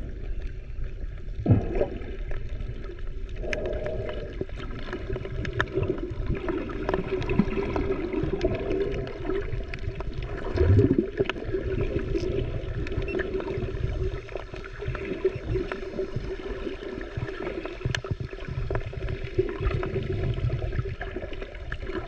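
A turtle biting and tearing at seaweed: irregular sharp clicks and crunches over a steady watery rumble, with a couple of low thumps, the loudest about 11 seconds in.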